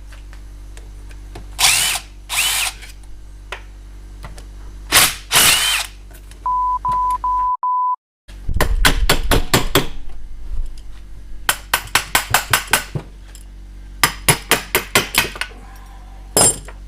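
Power driver on the starter generator's bolts, whirring up and down in short bursts, then quick strings of rapid sharp strikes, about six or seven a second, over a steady hum. A short beep sounds about halfway through.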